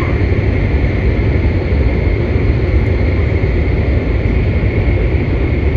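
Nishi Kyushu Shinkansen N700S train running at speed, heard inside the passenger cabin: a loud, steady low rumble with an even rushing noise over it.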